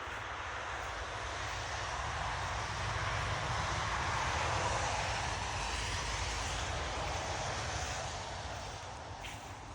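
Aircraft passing overhead: a rushing engine drone with a low rumble beneath it, swelling to its loudest about halfway through and then slowly fading.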